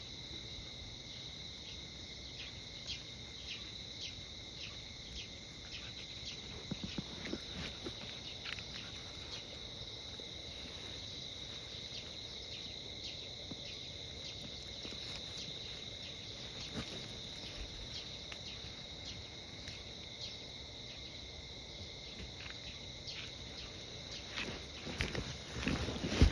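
Insects chirping in a steady, high continuous chorus with rapid pulsing. Louder scuffing noises come in near the end.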